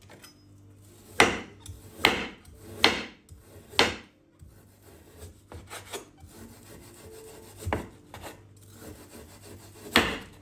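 Kitchen handling sounds: short, sharp scraping strokes against wood, four about a second apart, then two more spaced out near the end, over a faint low hum.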